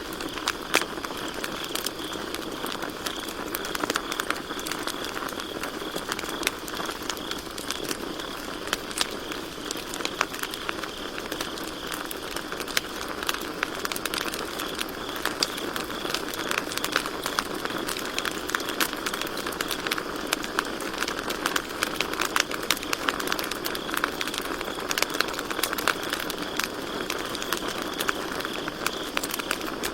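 Campfire crackling, with frequent sharp pops over a steady hiss of burning wood, and crickets chirping steadily in the background.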